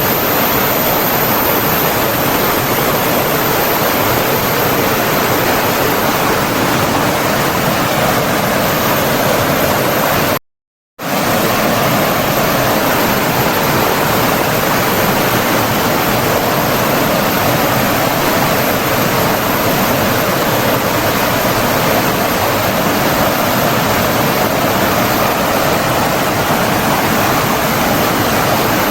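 Rushing water, a steady dense rush like a stream or small waterfall. It cuts out to silence for about half a second around ten seconds in, then resumes unchanged.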